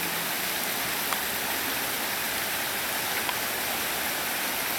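Steady rushing of a creek waterfall spilling into its pool.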